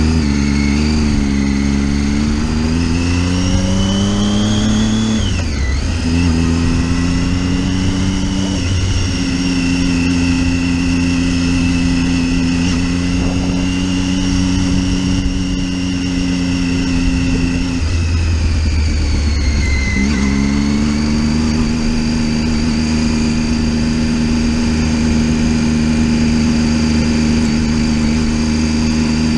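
Motorcycle engine under way. The revs climb for about five seconds, drop sharply with a gear change, then hold steady. Around eighteen seconds in they dip and settle again at a steady cruise, over a constant low rumble.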